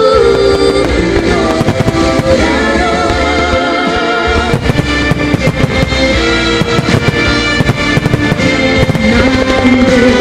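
A song plays loudly over a fireworks show. Many short firework bangs and crackles run through the music, coming thickest from about two seconds in.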